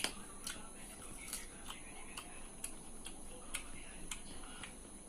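Wet mouth clicks and lip smacks of someone chewing food, coming irregularly every half-second to second.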